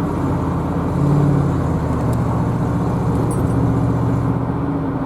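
Inside a car cruising at about 50 mph on a wet highway: a steady engine drone with tyre and road noise, swelling slightly about a second in.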